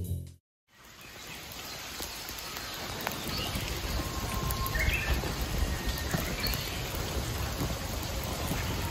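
Small birds chirping a few times over a steady rushing hiss of outdoor background noise, which fades in after a brief silence.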